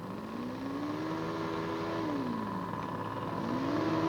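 Model aircraft engine revving up, holding, dropping back, then revving up again about three and a half seconds in, over a steady background drone.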